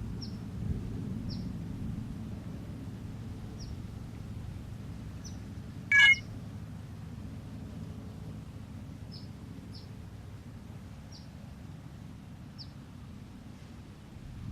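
A single short electronic chime about six seconds in, typical of an iPhone starting to charge as the solar harvester dumps its stored energy into it. Faint high bird chirps come now and then over a steady low background rumble.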